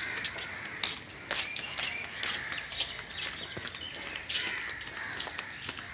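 Small birds chirping in short bouts, three times, with a few faint clicks in between.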